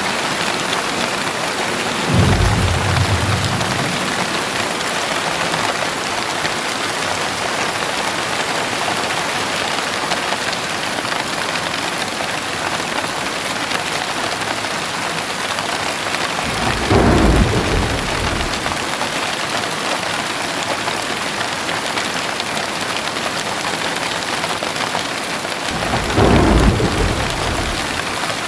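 Heavy rain falling steadily, with three short low rumbles of thunder: about two seconds in, past the middle, and near the end.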